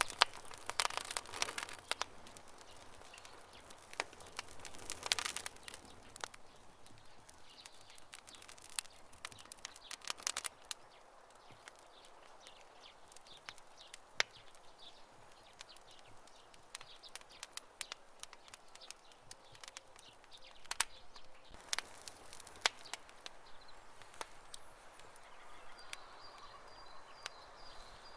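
Campfire crackling: irregular sharp pops and snaps, with denser bursts of crackle near the start, about five seconds in, and around twenty-one to twenty-three seconds in.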